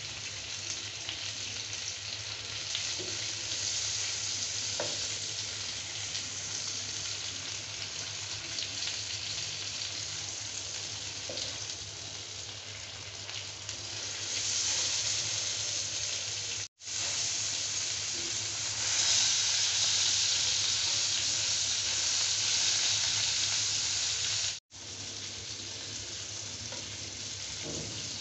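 Beef steak sizzling as it fries in a pan of foaming fat, pressed and turned with a silicone spatula. The steady sizzle swells louder about halfway through and cuts out for an instant twice.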